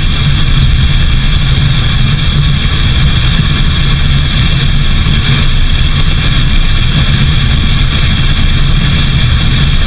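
Steady loud rumble and hiss of a vehicle driving, with even road noise and no changes.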